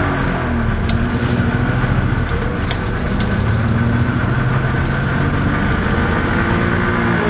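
Suzuki Fronte LC20's two-stroke engine running at idle, its revs easing down and rising again gently a few times. A few light clicks are heard over it.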